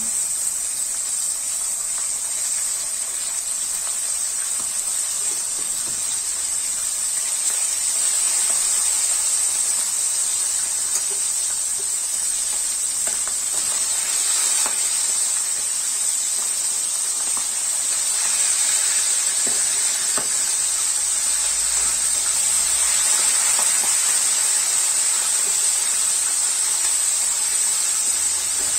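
Chicken drumsticks frying in hot oil in a pan: a steady sizzle.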